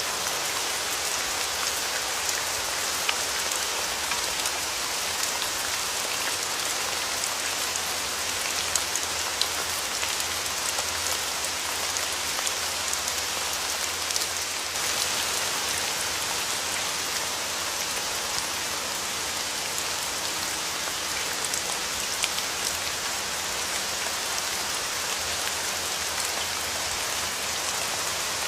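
Steady rain falling, a dense even hiss of raindrops with scattered small drop ticks.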